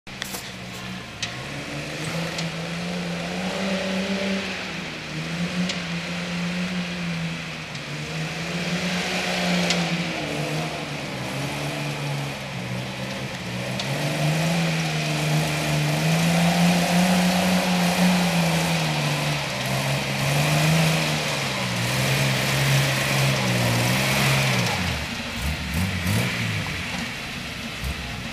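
A four-wheel-drive's engine working on a rough track, its revs rising and falling again and again, with a steady hiss over it. About 25 seconds in, the revs drop and the engine eases off.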